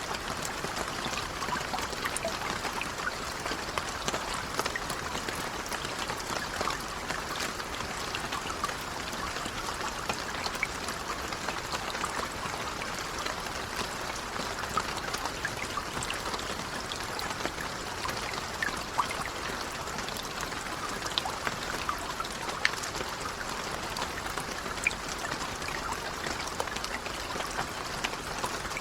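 Steady rain falling, an even patter dotted with individual drop ticks.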